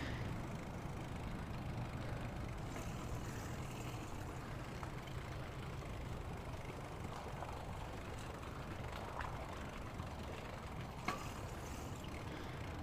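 Steady low rumble of a bicycle rolling along pavement, tyre and wind noise on a clip-on microphone, with a light click about eleven seconds in.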